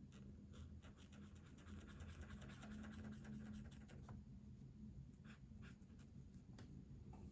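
A colouring tool scratching on paper in quick back-and-forth strokes for about the first half, then a few separate strokes. A faint steady low hum lies underneath.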